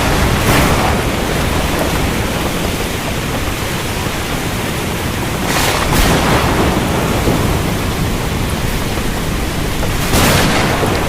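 Heavy rain falling steadily with rolling thunder underneath, swelling briefly louder about half a second in, around six seconds, and near the end.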